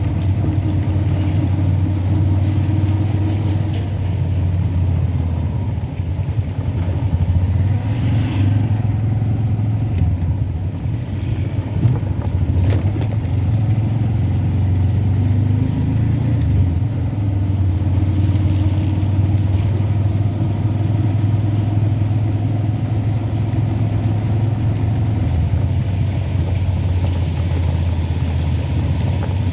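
Road vehicle driving on a rain-soaked road: a steady low drone of engine and road noise, with the engine note drifting up and down as the speed changes. A few faint ticks come about 8 and 12 seconds in.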